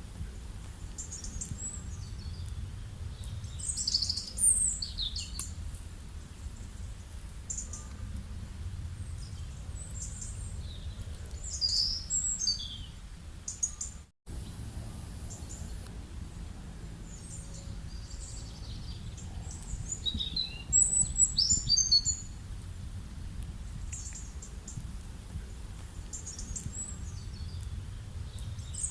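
Wild birds chirping and calling in short high-pitched bursts, in clusters a few seconds apart, over a steady low background rumble. The audio drops out for a split second about halfway through.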